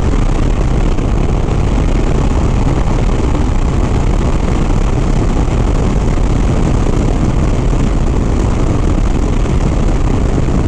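Harley-Davidson Softail Sport Glide's V-twin running steadily at highway speed, mixed with steady wind rush on the rider's microphone.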